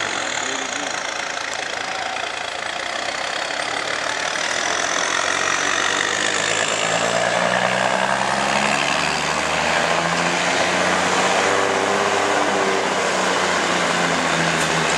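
Semi truck's diesel engine running, its pitch rising and the sound growing louder about halfway through.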